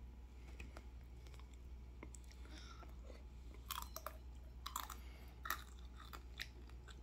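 A child chewing a bite of crisp ramen-noodle snack topped with cheese, quiet at first, then crunching sharply several times from a little past halfway on.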